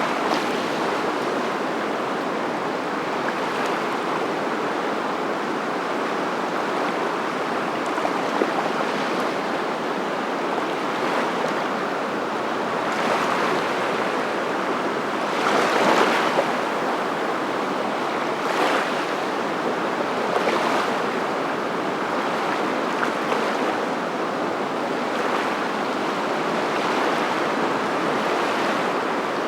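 Steady rushing noise of water, swelling briefly now and then, most strongly about halfway through.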